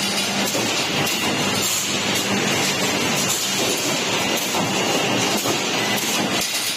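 Automatic CNC wire mesh welding machine running: steady, dense mechanical clatter with a faint low hum.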